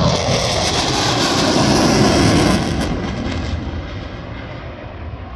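Aircraft flying past, loud, swelling to its peak about two and a half seconds in and then fading away.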